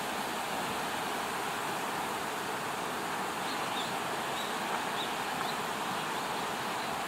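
Steady rush of flowing river water, with a few faint high chirps in the middle.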